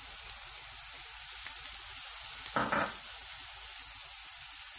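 Chopped onion, diced potato and freshly added grated carrot sizzling in oil in a stainless steel frying pan, as a steady hiss that is briefly louder about two and a half seconds in.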